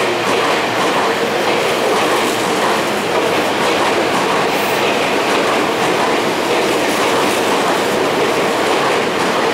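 Tobu 50050 series electric train pulling out of the station, its cars rolling past close by with a loud, steady rumble of wheels on rail.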